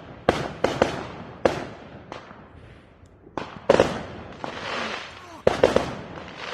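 Fireworks going off in a run of sharp, irregular bangs, several coming in quick doubles and triples, with a hissing crackle between them.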